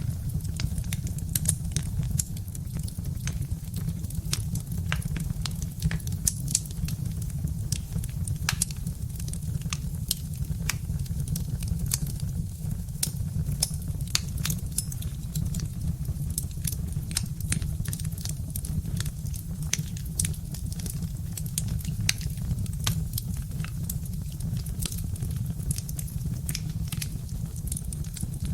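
Birch-wood fire crackling, with frequent sharp pops and snaps over a steady low rumble.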